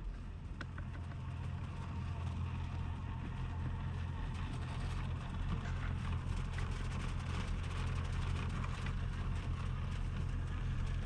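Monster truck's engine running with a steady low hum that slowly grows a little louder, with scattered light crackles over it.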